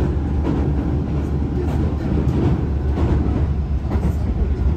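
Hankyu 2300 series electric train running, heard from inside the car: a steady low rumble of wheels and running gear on the rails.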